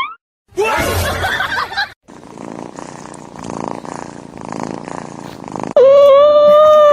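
A cat purring for a few seconds after a short noisy burst, then a loud, long, steady high-pitched animal cry near the end.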